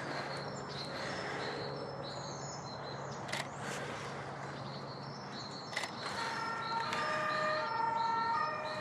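Birds chirping, with short high notes and, near the end, several longer whistled notes, over a steady outdoor hiss.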